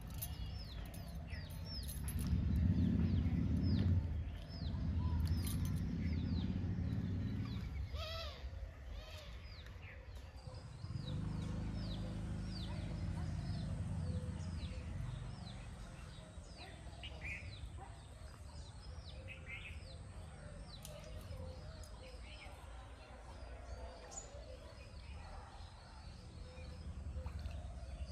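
Birds chirping, with many short, high, falling chirps a few times a second, over a low rumble that swells and fades through the first half.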